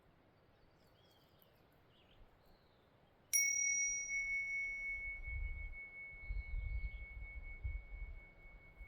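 A small metal bell or chime struck once, a little over three seconds in, ringing on with one clear high tone that fades slowly. A low rumble runs beneath it for a few seconds.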